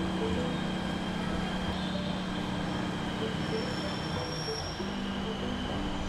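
Electric train running on rails: a steady rumble with constant tones, and a thin high whine that joins about three and a half seconds in.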